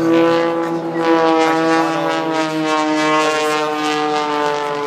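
An aircraft's engine drone passing over, a strong pitched hum whose pitch slowly falls.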